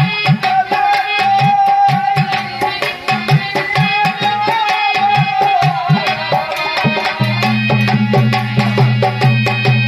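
Dholak playing a fast, steady rhythm of dense strokes under a held melodic note that slides down about halfway through. The drum's low strokes grow heavier and fuller a couple of seconds before the end.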